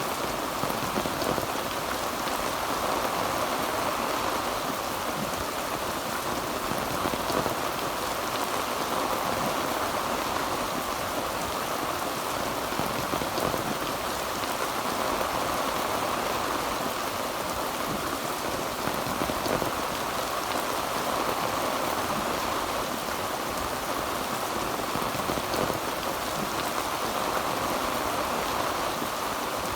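Heavy rain drumming steadily on a tin roof, an even dense patter with no thunder.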